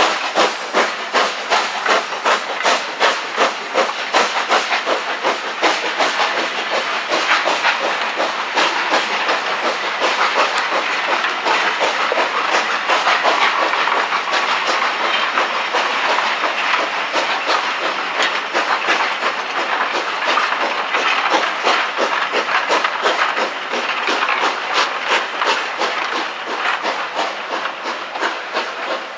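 LMS Black Five 4-6-0 steam locomotive 45212 working a train away, its exhaust chuffing in a fast, even rhythm over a steady hiss of steam.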